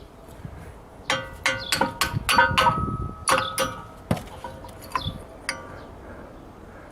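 Metal brake parts and hand tools clinking against one another, metal on metal. A quick run of ringing clinks comes about a second in, then a few single clinks.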